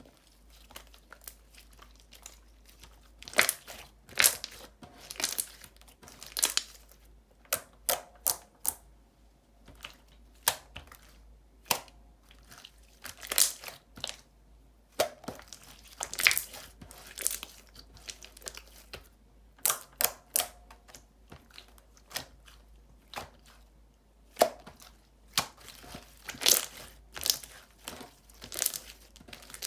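Hands squishing, stretching and poking jiggly slime, making irregular sticky pops and clicks, some in quick clusters.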